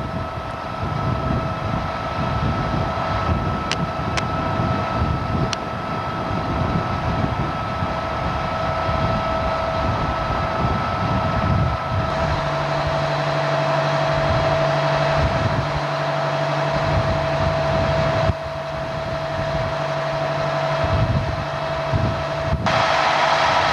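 A vehicle engine running, a low rumble under a steady high whine. The sound changes abruptly a few times, as at cuts in the footage.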